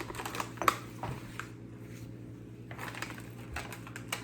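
Scattered light clicks and crunches from handling and biting into dry snack cookies, the sharpest click about two-thirds of a second in, over a steady low hum.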